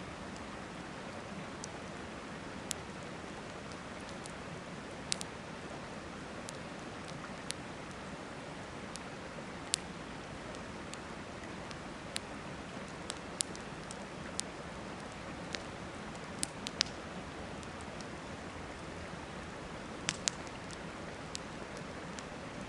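Wood fire crackling, with sharp pops at irregular intervals, over the steady rush of river water.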